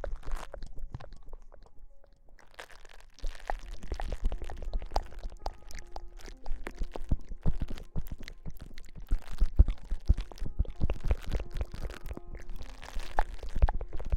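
Close-miked ASMR rustling: dense, irregular crackles with soft thumps against the microphone, easing off for about a second near the start before resuming.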